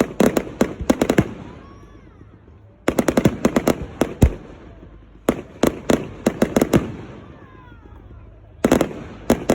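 Aerial fireworks exploding in four quick volleys of sharp bangs, each followed by a fading echoing rumble.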